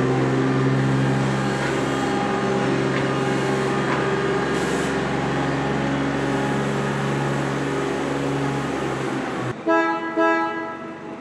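A steady, loud machine hum with a pitched drone, cut off abruptly about nine and a half seconds in, followed by two short toots of a train horn.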